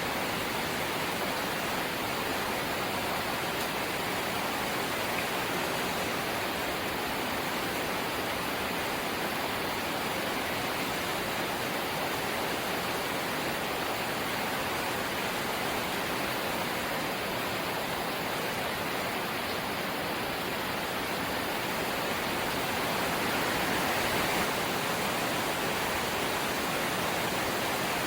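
Steady rain falling on a corrugated zinc sheet roof, a dense, even hiss that swells slightly a little over 20 seconds in.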